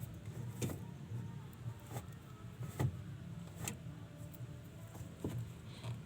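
Washing machine running after its drain has been cleaned and reassembled: a steady low motor hum, with a few sharp clicks or knocks at irregular intervals.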